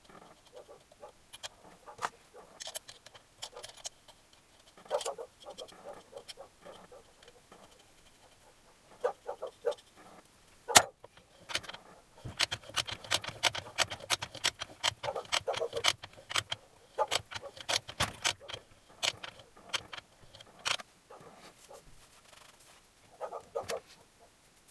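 Tools and small metal engine parts clinking and knocking during hand assembly of a motorcycle engine, with one sharp metallic knock about eleven seconds in and a dense run of quick rattling clicks through the middle.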